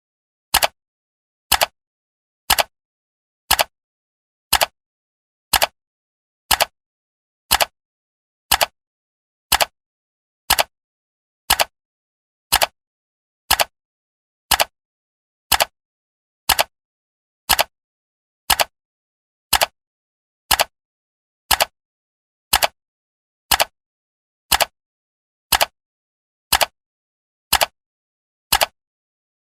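Clock ticking sound of a countdown timer: one short, sharp tick each second, evenly spaced, with silence between the ticks.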